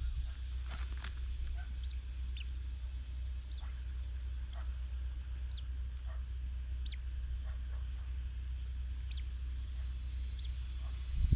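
A bird giving short, high chirps, repeated irregularly about once a second, over a steady low rumble.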